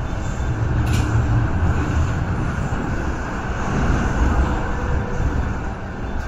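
MTR Tsuen Wan line M-train running, heard from inside the carriage: a steady loud rumble of wheels on the rails, with a brief click about a second in.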